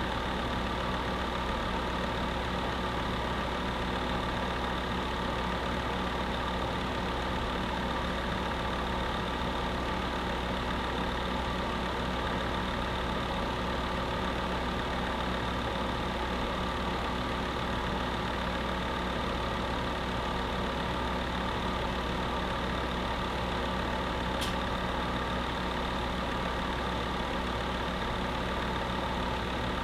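Electric space heater running with a steady hum and even whir, unchanging throughout, with one faint tick about three-quarters of the way through.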